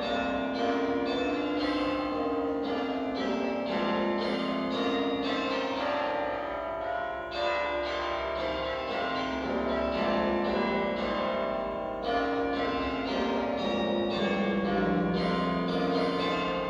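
Church bells ringing a peal, one bell struck after another about three times a second, their tones overlapping as they ring on.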